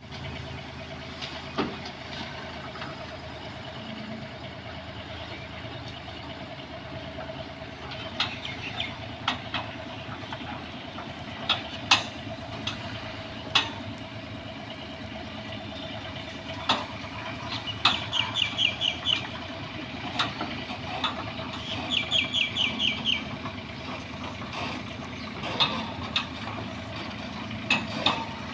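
Bobcat 322 mini excavator's diesel engine running steadily under work, with scattered sharp metallic clanks and knocks and two short runs of quick rattling about two-thirds of the way through.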